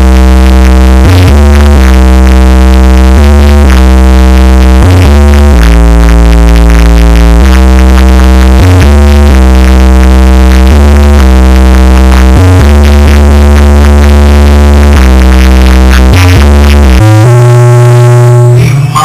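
Electronic music with a heavy, sustained synth bass line played very loud through a car sound system, the bass stepping from note to note every second or two. The deepest bass drops out about a second before the end.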